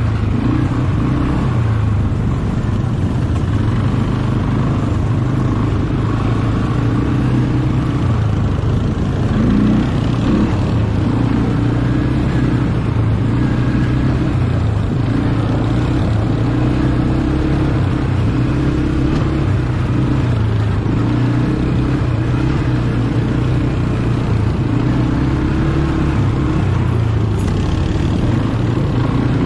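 ATV engine running under way, its pitch rising and falling a little with the throttle.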